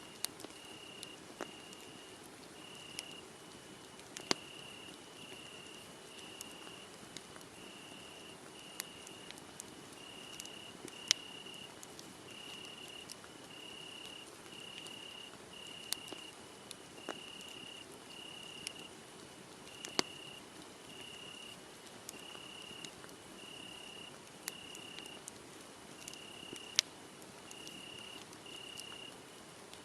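Cricket chirping steadily in short high chirps about once a second, over a wood fire crackling with scattered sharp pops.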